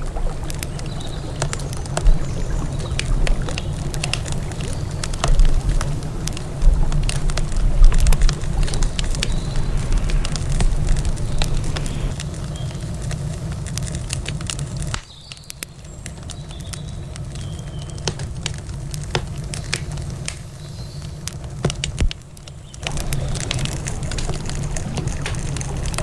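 Wood fire crackling, with irregular sharp pops and snaps over a steady low rumble. The rumble drops away for several seconds past the middle while the crackling goes on.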